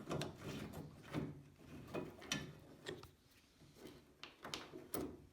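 Scattered light clicks and knocks, a second or so apart, from undoing the bolts on a dump cart's handle.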